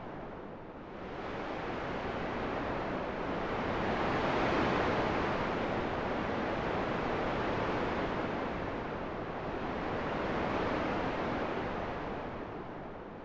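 Wind blowing as a steady rush that slowly swells, strongest about four seconds in, and eases off near the end.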